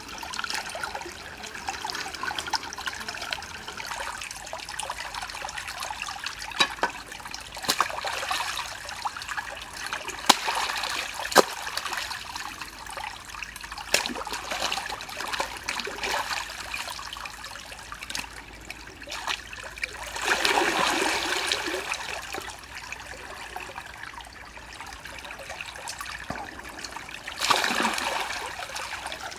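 Water trickling and splashing, with scattered sharp clicks and knocks and two louder splashes, one about two-thirds of the way through and one near the end.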